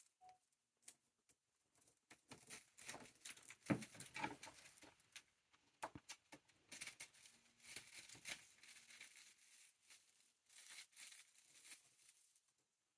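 Hahn's macaw nibbling and tearing at a small piece of bread with its beak: soft crackly crunching and quick little clicks in clusters, starting about two seconds in and stopping shortly before the end, with a few sharper knocks among them.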